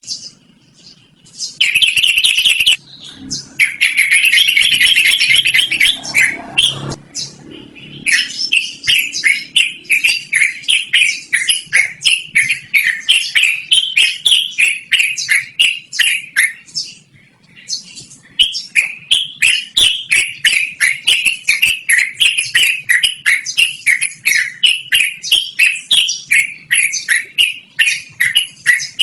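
Yellow-vented bulbul (trucukan) singing a long, continuous run of rapid chattering notes, about four a second. In the first few seconds it gives two denser bursts of chatter, and there is a short pause about two-thirds of the way through.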